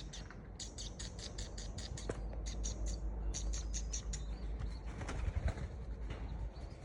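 Birds giving rapid runs of short, high-pitched chirps at about eight a second, in several bursts, over a steady low rumble.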